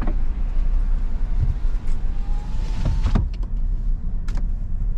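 Steady low road and engine rumble inside a moving car's cabin, with a faint whine about two seconds in and a few short knocks near three and four seconds.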